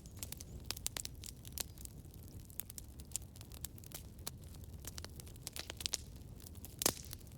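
Campfire crackling: irregular sharp pops and snaps over a low rumble, with one louder pop near the end.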